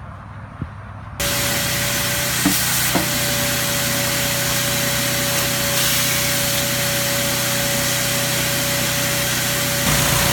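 Car-wash cleaning machine switching on suddenly about a second in, then running with a loud, steady rushing noise and a steady whine, with two light knocks shortly after it starts.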